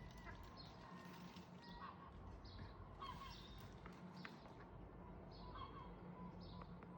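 Faint bird calls: short, high chirps repeating about once a second, over a low steady background hum.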